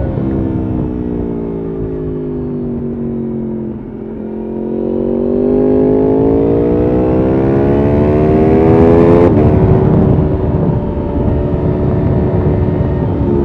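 Yamaha R1 RN22's crossplane inline-four through an Akrapovič exhaust under way. The engine note falls off for about four seconds, then climbs steadily under acceleration for about five seconds to its loudest. About nine seconds in it drops sharply at a gear change and carries on at a steadier pitch.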